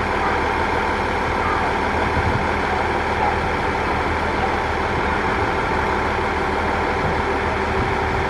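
Diesel railcar's engine idling with a steady low hum.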